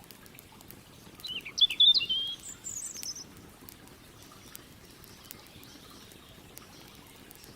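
A songbird sings one short phrase of quick, high chirping notes about a second in. Behind it a campfire crackles with scattered sharp pops over the steady low rush of a river.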